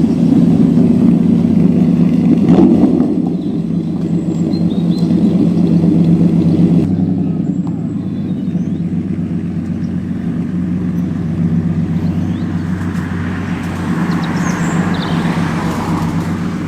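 Car engine running steadily close by, a little louder for the first three seconds.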